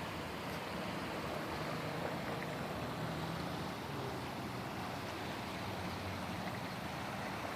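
Steady rushing of flowing floodwater, an even hiss with no breaks.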